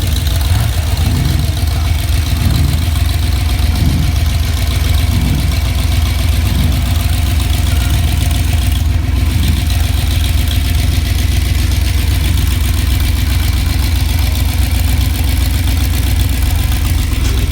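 Car engine idling steadily with a deep, loud low rumble.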